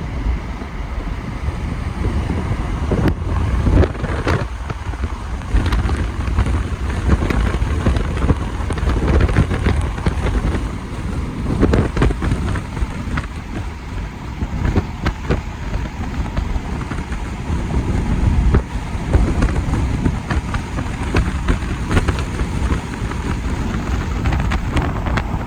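Wind buffeting the microphone: a continuous low rumble that swells and eases in gusts.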